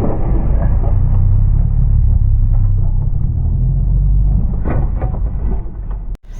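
Deep, steady rumble of a Jeep running on the beach, heavy in the low end, cutting off suddenly near the end.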